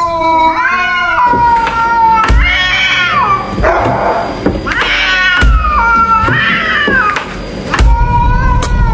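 A cat meowing in a series of long, drawn-out yowls, about four calls that bend up and down in pitch, with a short hissy stretch in the middle.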